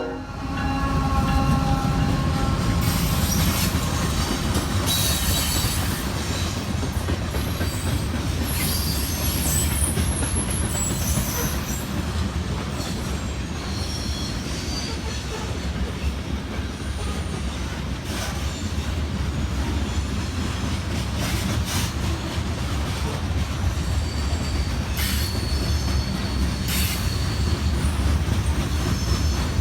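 Freight train rolling past with a steady low rumble, wheels clicking over rail joints and brief high wheel squeals now and then.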